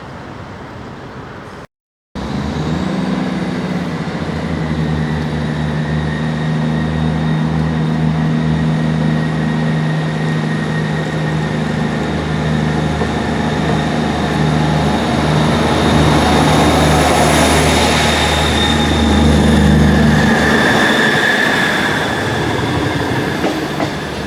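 Passenger train at a station: a loud, steady low drone of several tones with a thin high whine above it. The sound breaks off briefly just under two seconds in and changes near the end.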